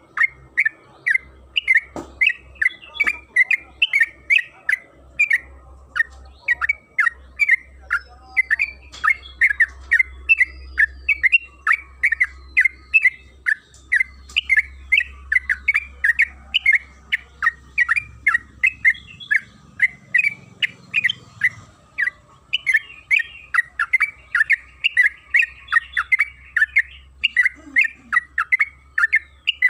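Yellow-vented bulbul (trucukan) singing a long unbroken run of short, sharp chirping notes, about two to three a second.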